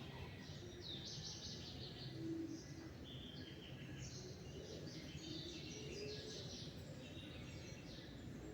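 Several songbirds chirping and singing over one another in a dawn chorus, with a steady low rumble of background noise underneath.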